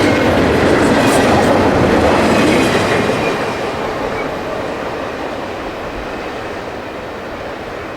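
Freight train rolling by on the rails, loud at first and fading steadily from about three seconds in as it moves away.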